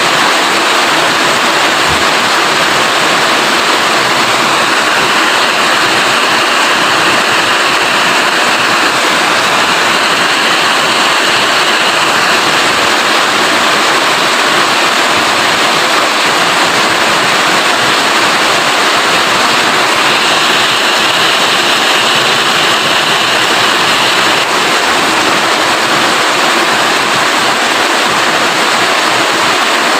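Steady heavy rain falling, a loud even hiss without break.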